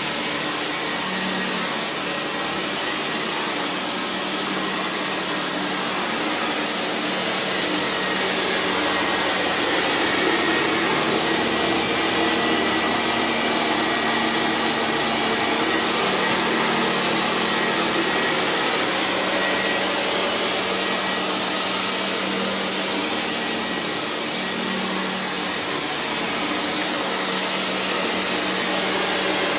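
Vacuum cleaner running steadily, its motor giving a constant high whine over a rushing airflow noise that grows slightly louder about eight seconds in.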